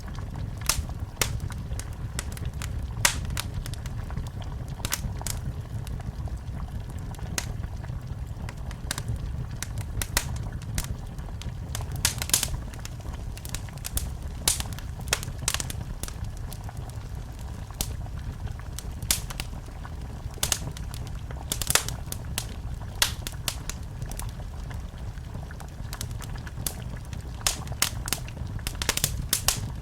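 Wood fire burning in a fireplace: a steady low rumble of flames with irregular sharp crackles and pops, a few every second.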